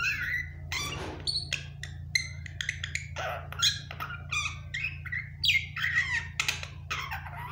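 Pet myna calling: a quick run of short whistles, squawks and chattering notes, many of them sliding in pitch.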